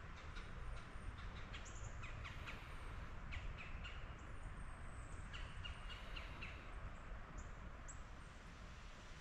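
Wild birds calling: clusters of short calls about two, three and a half and five and a half seconds in, with a few thin high whistles, over a faint steady low background noise.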